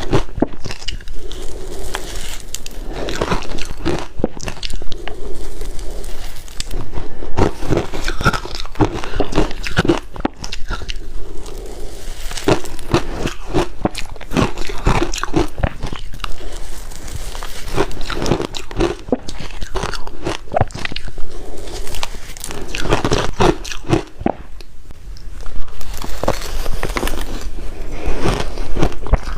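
Ice being bitten and chewed, a continuous run of loud, sharp crunches and cracks close to the microphone.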